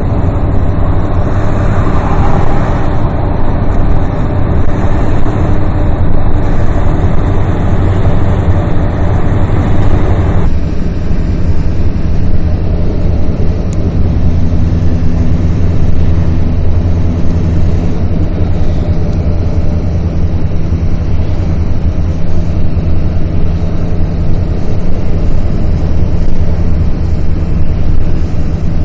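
Motor vehicle running steadily, a low engine drone with road noise. The upper part of the sound changes abruptly about ten seconds in.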